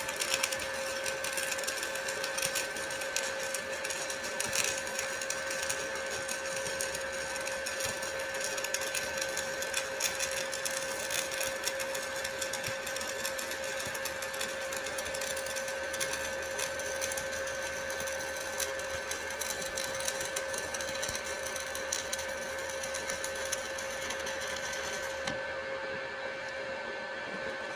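Stick welding arc crackling steadily as an electrode burns along a pipe joint, with a steady electrical whine underneath.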